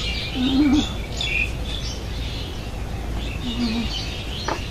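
Many small birds chirping and twittering over a steady low rumble, with two short, low, wavering calls under them, about half a second in and again near the end.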